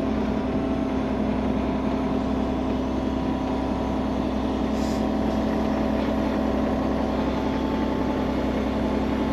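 Skid steer loader engine running at a steady, unchanging pitch as the machine slowly drives across the open drain trench.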